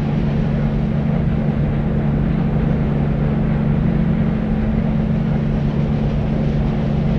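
Deep white noise for sleep: a steady, unchanging bass-heavy hiss with a constant low hum and little treble.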